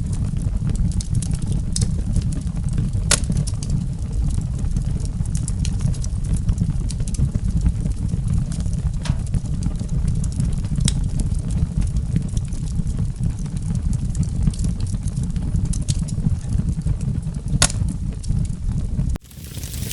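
Wood fire crackling, with scattered sharp pops, a few loud ones about 3 seconds in and near the end, over a steady low rumble. The sound cuts out briefly near the end.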